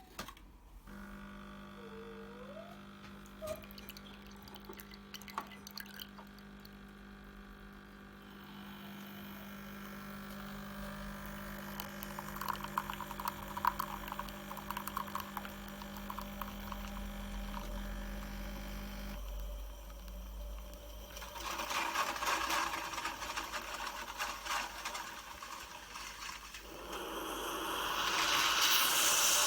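Bosch Tassimo pod coffee machine dispensing from the milk pod: a steady pump hum with liquid pouring into the cup. The hum stops about two-thirds of the way through, and a louder hissing and sputtering follows.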